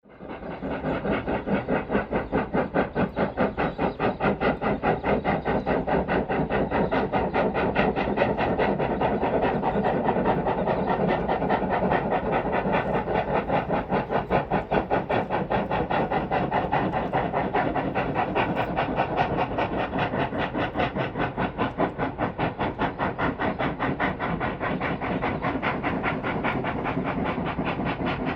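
Two NSW 4-6-0 steam locomotives, a C35 and a C36 class, working hard up a steep grade: a fast, even stream of exhaust beats with steam hiss under it. The beats rise quickly at the start and then hold steady.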